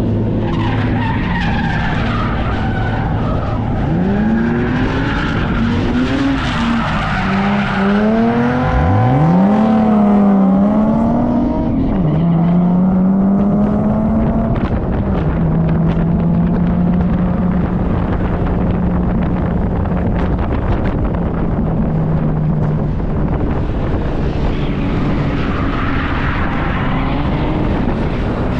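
Drift cars on track: engines revving and falling through their slides, with tyres squealing. The engine pitch swoops up and down several times in the first half, then holds a steady note for several seconds.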